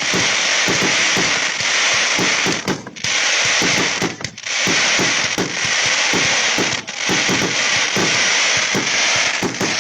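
Fireworks crackling in four long waves of about one to three seconds each, a dense hiss with many small pops, broken by short gaps.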